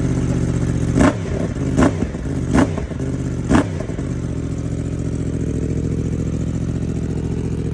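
Yamaha naked sport motorcycle engine blipped four times in quick throttle revs about a second apart, then settling into a steady idle.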